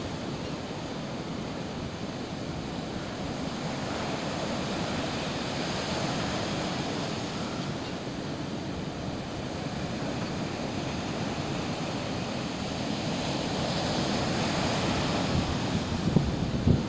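Sea waves washing in steady surf, with wind buffeting the microphone as a low rumble.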